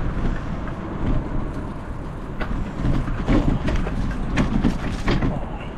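Bicycle rolling slowly over a rough, overgrown woodland path: a steady low rumble with a few sharp knocks and rattles as it goes over bumps.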